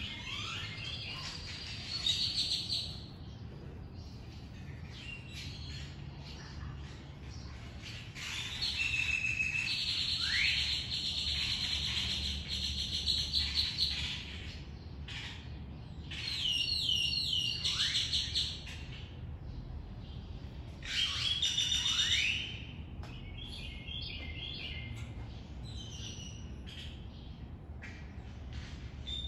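Songbirds singing and chirping in several bouts, the longest a fast trill of rapidly repeated notes lasting several seconds, with downward-sweeping notes in between.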